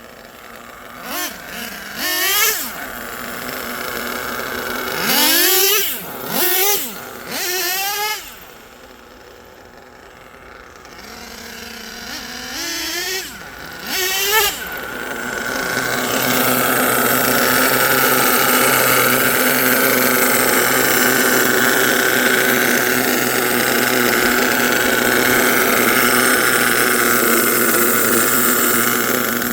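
Twin LRP .32 big block two-stroke nitro engines of an HPI Savage XL RC truck being revved in a series of short throttle blips, each rising and falling in pitch. About halfway through they are held at high revs in a steady, sustained run.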